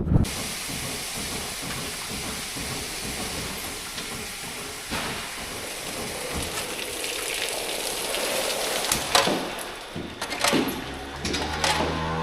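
Wind on the microphone as a steady hiss, with a few knocks about three quarters of the way in. A steady low hum comes in near the end.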